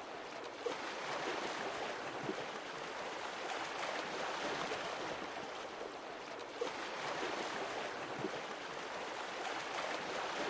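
Sea waves washing in, a steady wash of surf that swells and eases every few seconds, with a few small splashes.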